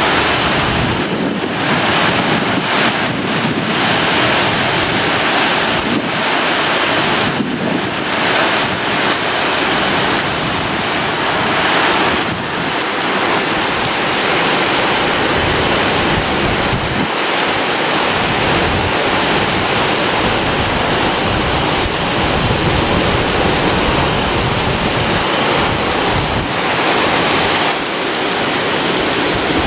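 Typhoon wind rushing steadily in strong gusts, with gusts buffeting the microphone.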